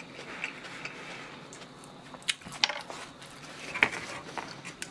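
Close-miked chewing of food, with scattered wet mouth clicks and smacks; the sharpest come about two and a half seconds in and again near four seconds.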